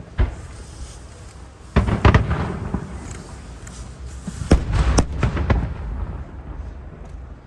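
Aerial firework shells bursting in the sky: a bang just after the start, a quick cluster of bangs about two seconds in, and another volley from about four and a half to five and a half seconds. Each burst leaves a low rumble that dies away.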